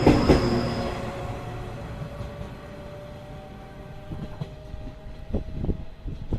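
A train passing on the rails, its wheels clacking over rail joints at the start, then running on more faintly as it moves away, with a ringing tone that dies down. A few more wheel clacks come near the end.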